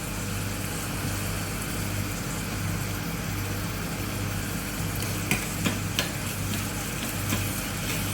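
Chicken pulimunchi masala sizzling in hot oil in a pan, stirred with a spoon, over a steady low hum. A few sharp clicks of the spoon against the pan come about five to seven seconds in.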